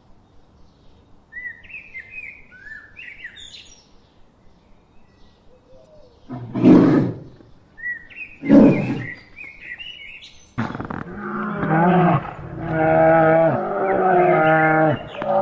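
Animal calls: birds chirping, then two loud harsh calls about two seconds apart, then long drawn-out pitched calls from a larger animal.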